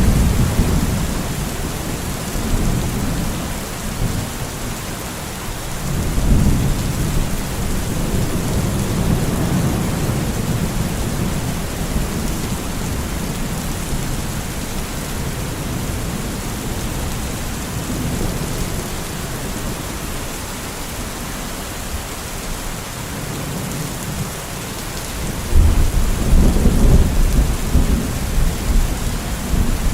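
Steady rain with thunder rumbling low in the background, swelling about six seconds in and again more strongly near the end.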